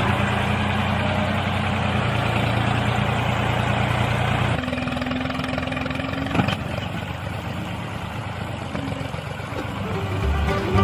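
A small motor running steadily, its sound changing about four and a half seconds in, with a sharp click a little after six seconds.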